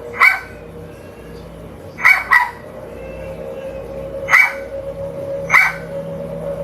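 Dogs barking: five short barks, one at the start, a quick pair about two seconds in, then two more single barks, picked up by a Ring doorbell camera's microphone over a steady hum.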